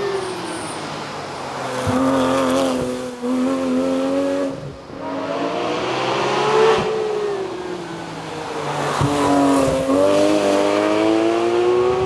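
Porsche 911 GT3 RS flat-six engine at full race pace, the pitch climbing and falling repeatedly as it accelerates through gear changes, lifts off and pulls again. There are brief drops in pitch at the shifts and a short lift about five seconds in.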